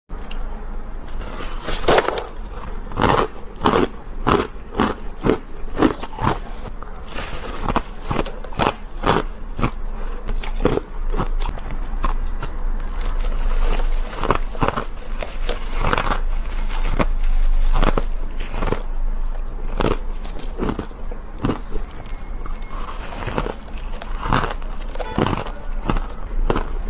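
A person biting and crunching ice cubes close to the microphone: an irregular run of sharp, crisp crunches, about one or two a second.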